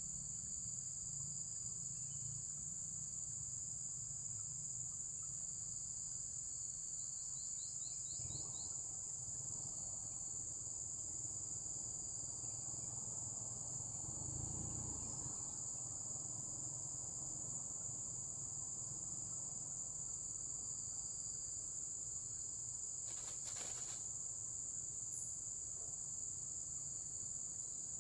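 Steady high-pitched chorus of crickets, with a short run of rapid chirps about a third of the way in and a brief rustle late on.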